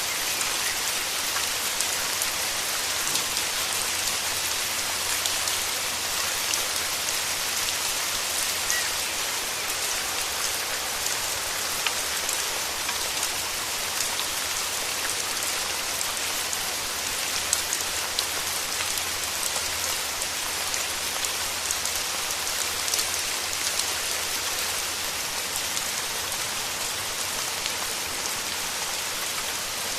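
Steady heavy rain falling on foliage: a dense, even hiss of drops with many individual drop ticks standing out.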